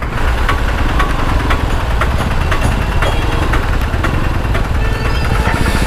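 Bajaj Pulsar NS200's single-cylinder engine running steadily on the road, heard from the rider's own camera mic.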